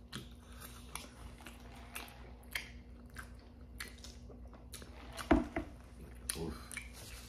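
Chewing and eating noises from fast food: small wet mouth clicks and crunches, scattered through, with one louder short thump about five seconds in.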